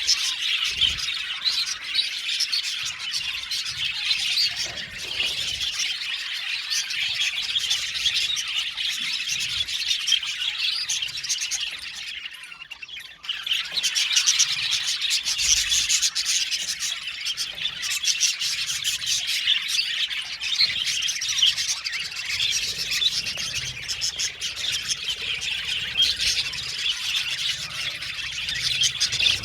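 A flock of budgerigars chattering, chirping and warbling together in a dense, continuous twitter, with a brief lull about halfway through.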